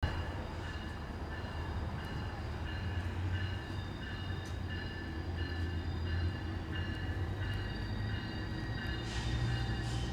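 A train running past, with a steady low locomotive rumble and several steady high whining tones over it.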